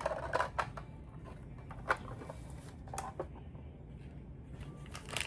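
Small plastic toy pieces being handled: scattered light clicks and taps, with a little rustling at the start.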